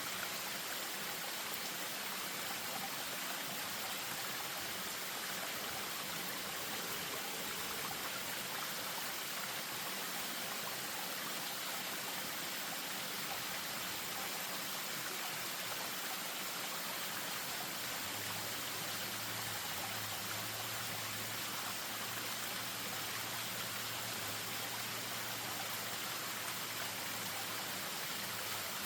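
Spring-fed stream spilling over a small waterfall: a steady, even rush of running water.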